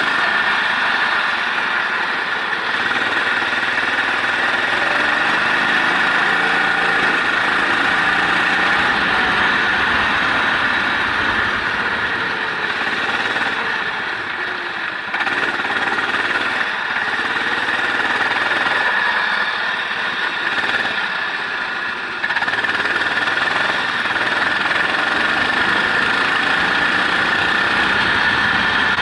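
Racing vehicle's engine heard onboard on a wet track, revving up and down through the gears. Twice, about halfway and again about three-quarters of the way in, it eases off and then picks up again sharply.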